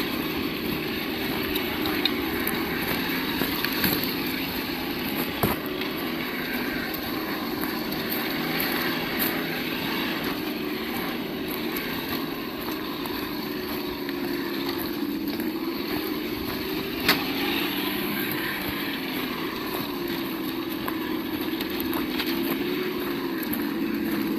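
Sound module of a 1:8 scale RC crawler playing a simulated engine note that rises and falls with the throttle. A few sharp knocks, the loudest about 17 seconds in.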